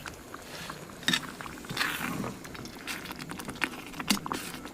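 Cooking-utensil clinks and scrapes against a metal pot: a few irregular sharp clicks with short scraping rustles, as the butter chicken gravy is stirred.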